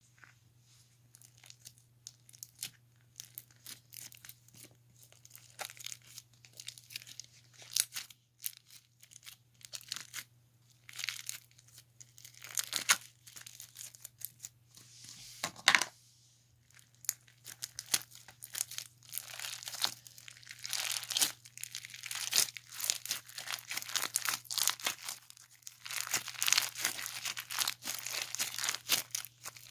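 Hands kneading, stretching and pressing slime, giving a run of small crackles and pops that grows much busier in the second half. There is one louder snap about halfway through.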